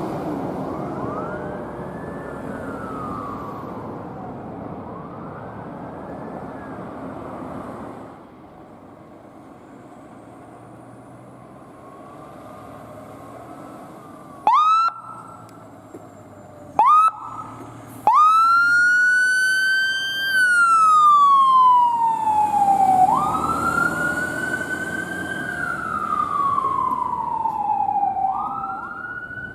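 Emergency vehicle sirens. First a responding vehicle's engine with a faint rising-and-falling siren; then, after a quieter stretch, two short rising siren chirps and an electronic siren starting into a slow wail that climbs quickly and sinks over about five seconds, repeating, over engine noise.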